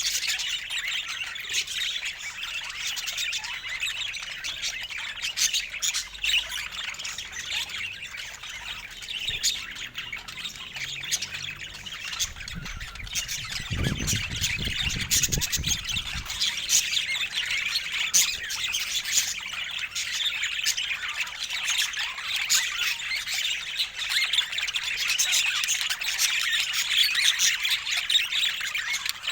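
Budgerigars chattering, warbling and squawking continuously, many quick chirps overlapping. A low rumble joins the chatter for a few seconds midway.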